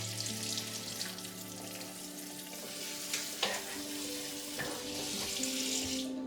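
Food frying and sizzling in a pan as a steady hiss, with a couple of light clicks from stirring, over soft instrumental background music. The sizzle cuts off suddenly near the end.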